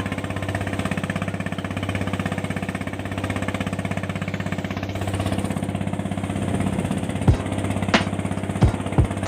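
An engine running steadily with a fast, even pulse. Several sharp knocks or thumps come over it near the end.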